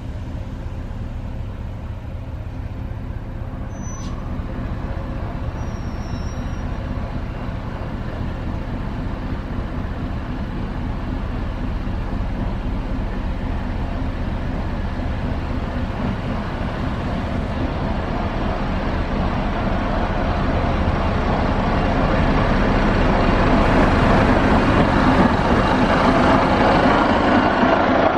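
Class 73 locomotive's diesel engine running steadily, growing gradually louder, with a rising rumble of the train toward the end.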